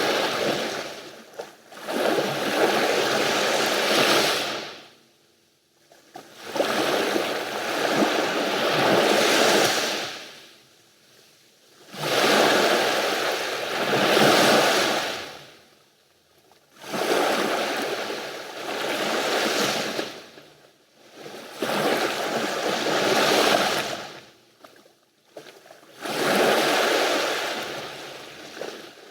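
Mediterranean sea waves washing up on the shore, coming in repeated surges every few seconds with short lulls between them.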